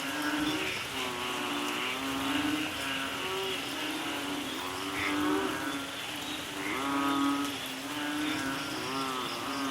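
A chorus of frogs calling over steady rain: many low, droning calls overlap and repeat about once a second, some bending up and down in pitch.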